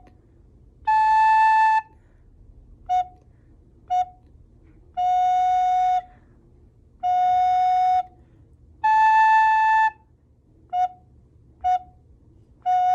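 Recorder playing a simple tune twice over on two notes, F# and the A above it: each phrase goes long F#, long A, two short F#s, then a long F#. Each note is clean and tongued separately, with short gaps between.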